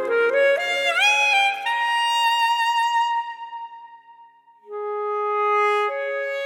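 Classical saxophone playing a climbing phrase that swoops up to a held high note, which fades away. After a brief near-silence it returns with lower sustained notes. Piano accompaniment sounds under the opening run.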